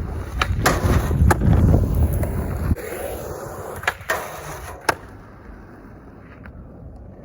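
Skateboard rolling on pavement, the wheels giving a loud low rumble, with sharp clacks of the board hitting. The rumble cuts off suddenly a little under three seconds in, leaving a quieter stretch with two more sharp clacks.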